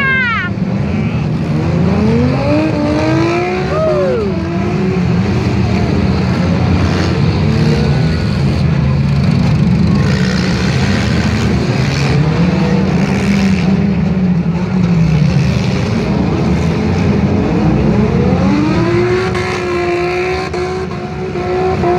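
Several demolition derby cars' engines running and revving together, the pitch climbing and falling again and again as the cars accelerate and back off.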